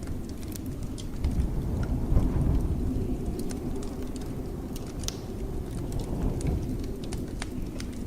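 Blizzard wind rumbling low, swelling into a gust about a second in and easing off again, with the sharp pops and crackles of a fireplace scattered throughout.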